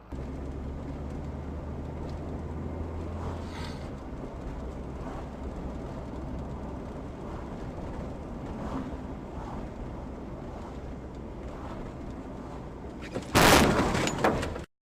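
Steady low road and engine rumble from a car driving, then about thirteen seconds in a sudden loud crash with crunching lasting just over a second: a vehicle collision. The sound cuts off abruptly right after.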